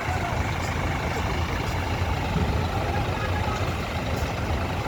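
Bus's diesel engine running steadily with a low rumble, with people's voices in the background.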